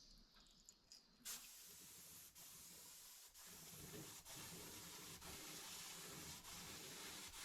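Paint being sprayed onto a car body panel: a steady hiss that starts abruptly about a second in, with brief breaks as the spray stops and restarts.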